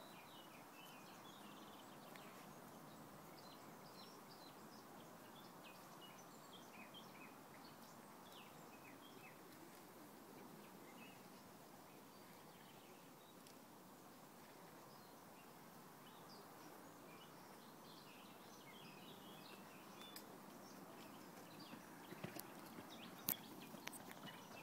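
Faint birdsong: many short chirps from small birds over a soft, steady background hiss, with a few sharp clicks near the end.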